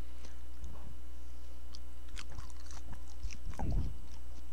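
Mouth chewing a dense, floury old-style Korean sausage: soft, wet mouth clicks and smacks, with a louder burst of chewing about three and a half seconds in.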